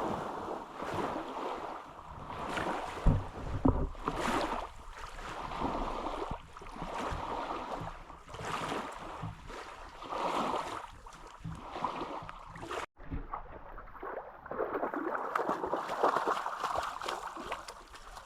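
Outdoor rushing noise that swells and fades every second or two, like gusting wind, with a sudden break about thirteen seconds in.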